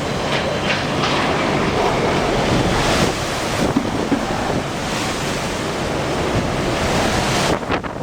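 Typhoon-force wind gusting hard and steadily, with the wind buffeting the microphone; the gust eases near the end.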